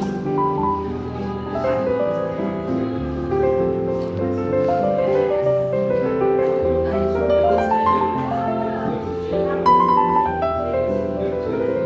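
Smooth jazz piano music, a melody over a steady chord accompaniment.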